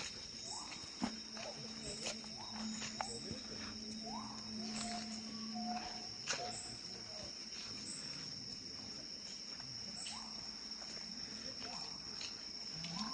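Tropical forest insects shrilling steadily at one high pitch, with scattered clicks and knocks from hikers moving along the trail.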